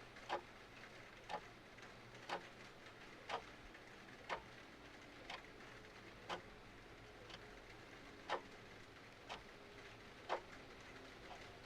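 Clock ticking evenly at about one tick a second, some ticks louder than others, over a faint steady hiss of rain and fireplace ambience.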